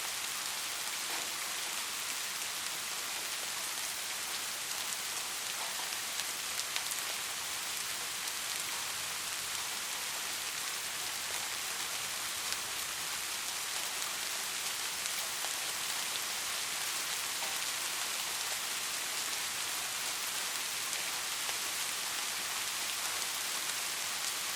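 Steady rain falling, an even hiss with the patter of individual drops and a few sharper drop ticks.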